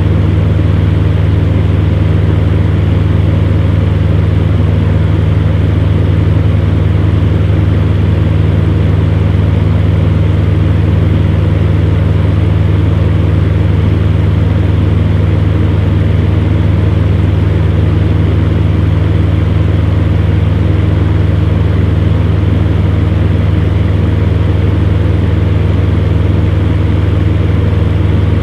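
Electric fan heater running steadily: a constant low motor hum under an even rush of blown air.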